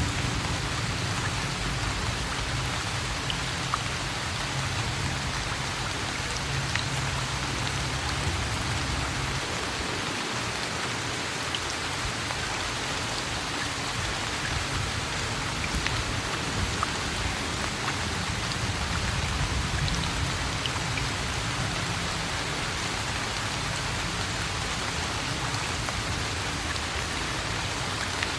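Steady rain falling, an even hiss with scattered drop ticks, and a low rumble underneath that is strongest for the first third.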